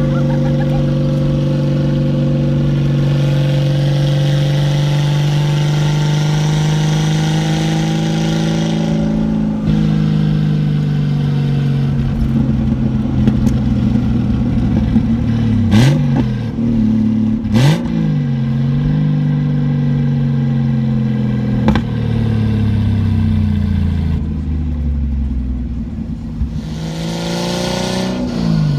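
Turbocharged Mk3 Toyota Supra's 7M-GTE straight-six driving on the road. Its engine note climbs slowly, then eases off about nine seconds in. A few sharp knocks come around the middle, the pitch falls as the car slows, and the revs climb again near the end.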